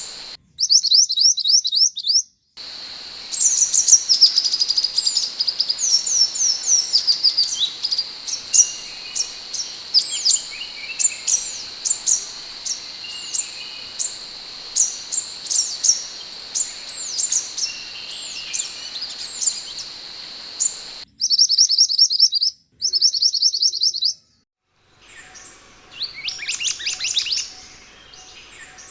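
Scarlet minivet (mantenan) calling: quick runs of thin, high whistled notes, each sweeping downward, over a steady high-pitched drone. The recording cuts abruptly between spliced segments, with brief silent gaps.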